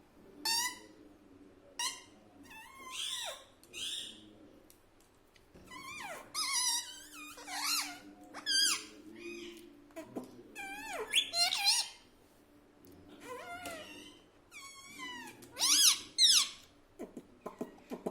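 Indian ringneck parakeet giving a string of short, high, warbling squeaks and chattering calls, one after another with brief pauses.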